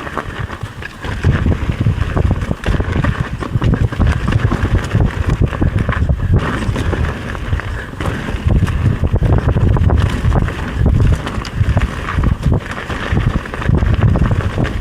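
Mountain bike riding over a forest trail strewn with branches: tyres rolling and crunching over debris and the bike rattling with many small irregular knocks, under heavy wind buffeting on the microphone.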